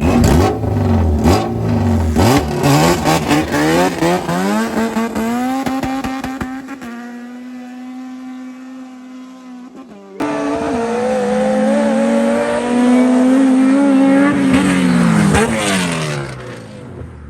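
Honda F-series and turbocharged B-series drag cars launching and accelerating hard, engine pitch climbing in steps through gear changes, with sharp cracks in the first couple of seconds, then fading as they pull away. About ten seconds in a loud engine at high revs comes in suddenly, its pitch climbing slowly and then dropping before it cuts off near the end.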